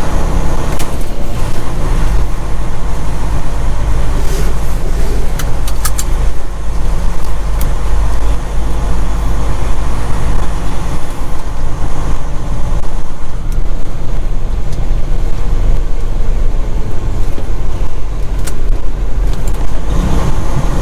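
Semi-truck cab while driving: the diesel engine's steady low drone with road noise, and a few sharp clicks or rattles around four to six seconds in.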